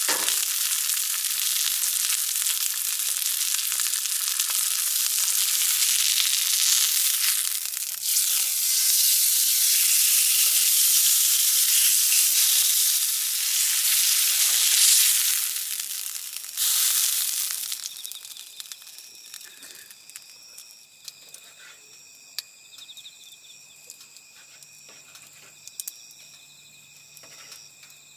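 Meat sizzling loudly on a hot pan, a dense steady hiss with small pops and crackles. About seventeen seconds in it cuts off, leaving autumn insects, crickets, chirping steadily and faintly.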